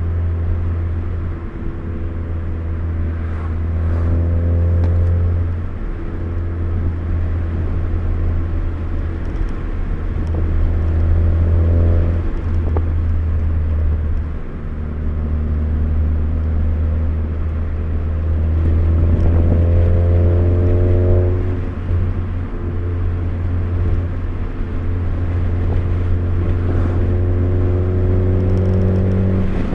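2013 Ford Focus ST's turbocharged four-cylinder engine heard from inside the cabin, pulling up in pitch under acceleration several times with drops between, over a steady low road drone.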